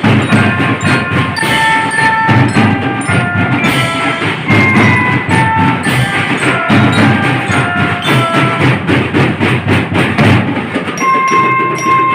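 School drum band playing a marching tune: drums keep the beat while a bell lyra (marching glockenspiel) plays the stepping melody of ringing notes, which turns to a repeated single high note near the end.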